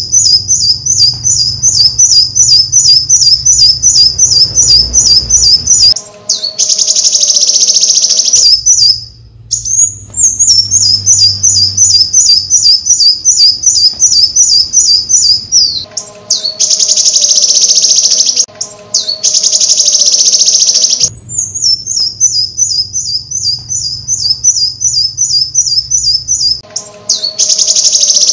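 Bird song, loud and high: long runs of rapid repeated chirps alternating with short buzzy trills, the same phrase pattern coming round about three times.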